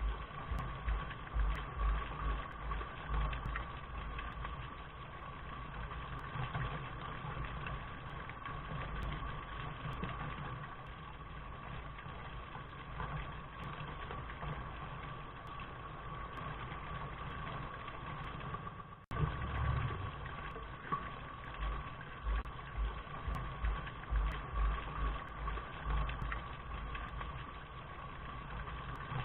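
Steady rain noise, dull and cut off in the highs, with an uneven low rumble underneath and a brief dropout about 19 seconds in.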